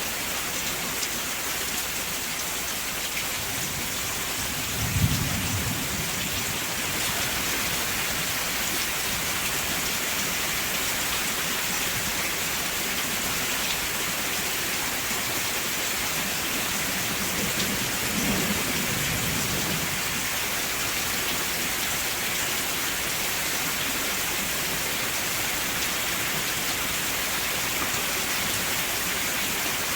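Steady rain falling, an even hiss, with two low rumbles of thunder: a sharper one about five seconds in and a softer one past the middle.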